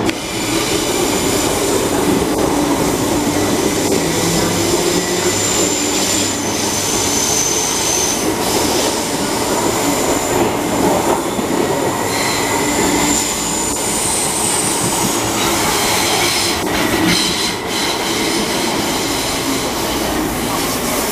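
MTR East Rail Line MLR (Metro-Cammell) electric train running along a station platform: a steady rumble of wheels on rail, with high-pitched wheel squeal coming and going twice and a few clicks over rail joints near the end.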